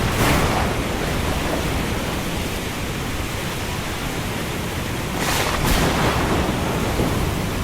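Thunderstorm: heavy rain as a steady hiss over low rumbling, with brief louder surges near the start and again about five seconds in.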